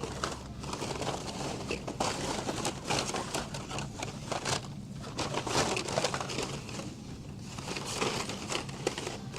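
Blister-packed Hot Wheels die-cast cars being rummaged through in a bin: plastic packaging crinkling and clattering, with many quick irregular clicks.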